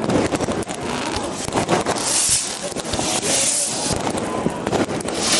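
Fireworks going off in a dense run of bangs and crackles, with spells of hissing crackle about two seconds in and again a little later.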